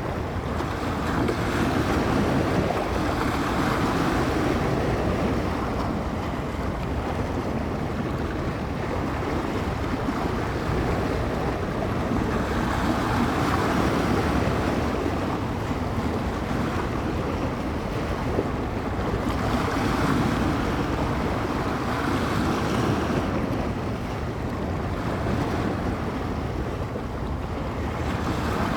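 Small bay waves breaking and washing on the shore in a steady surf, swelling and easing every several seconds, with wind blowing across the microphone.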